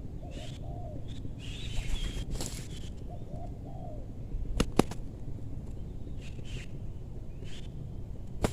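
Spotted dove cooing in low, wavering phrases, once at the start and again about three seconds in, with faint small-bird chirps and a couple of sharp clicks near the middle.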